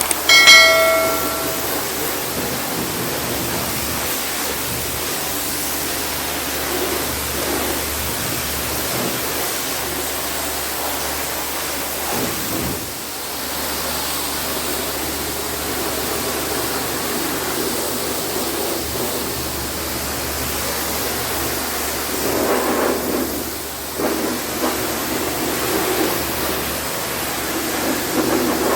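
Pressure washer spraying water in a steady hiss, swelling now and then. Just after the start comes a brief, loud metallic ring with several tones that dies away within a second or so.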